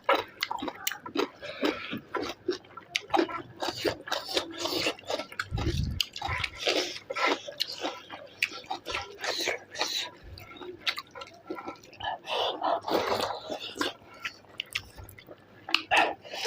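A person chewing chicken close to the microphone: wet smacking and clicking mouth sounds at an irregular pace, with a single low thump about five and a half seconds in.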